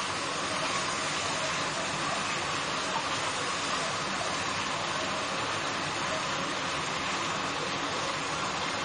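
Sliced potatoes frying in hot mustard oil, a steady, even sizzle.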